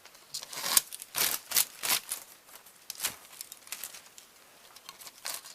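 Crinkling and rustling of loose VHS magnetic tape being pulled out and crumpled by hand, in irregular crackling bursts, busiest over the first three seconds and sparser after.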